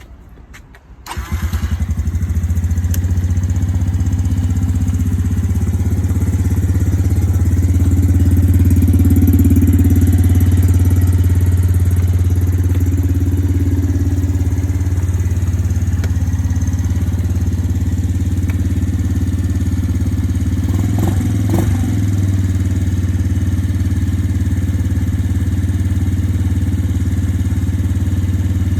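Suzuki LT-Z90 quad's small single-cylinder engine starting about a second in, then idling steadily. The engine note swells a little for several seconds, and there are a few brief knocks about two-thirds of the way through.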